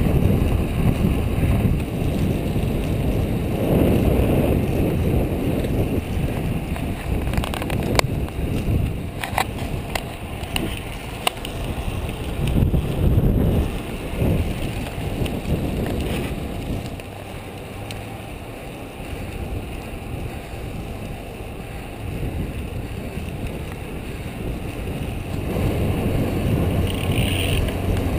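Wind buffeting the microphone and tyre noise from a road bicycle riding in a race pack at about 20 mph, a steady rumbling noise that swells and eases. A few sharp clicks sound near the middle.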